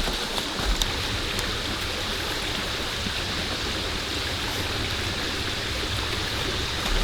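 Steady rain falling, an even hiss with a few drop ticks in the first second.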